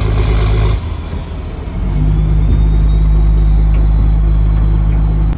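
Fishing boat's engine running: a steady, deep hum that dips about a second in and comes back louder at about two seconds.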